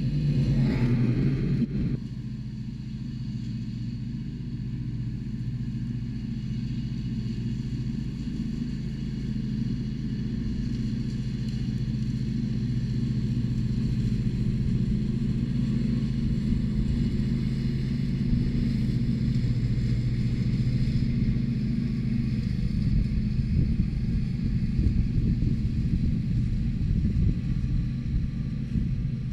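Tractor engine running steadily at working speed, with a louder rushing noise in the first two seconds.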